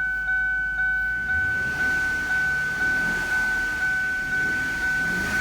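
A 2000 Lincoln LS's warning chime dings about twice a second as a steady high tone. From about a second in, its 3.9-litre V8 is revved up underneath.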